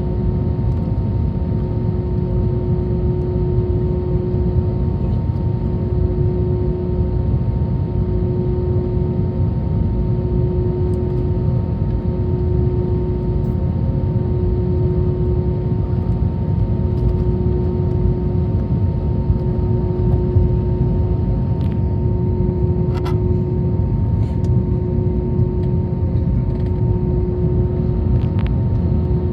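Cabin noise of an Airbus A321 taxiing after landing: a steady low rumble of the idling jet engines and the rolling wheels, with a constant hum tone over it. A few faint clicks come in the second half.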